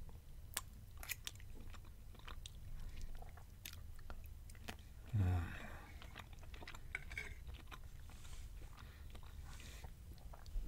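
Close-up chewing of the last bites of spaghetti Alfredo and sausage, with small clicks of a metal fork on a ceramic plate. About five seconds in there is one short, low vocal sound from the eater, the loudest moment.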